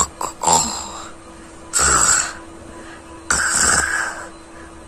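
A baby making three short, breathy fussing sounds, each about half a second long.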